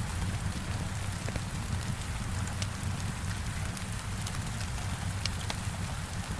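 Heavy rain beating on a window, a dense steady hiss over a low rumble, with scattered small crackles and pops of a wood fire.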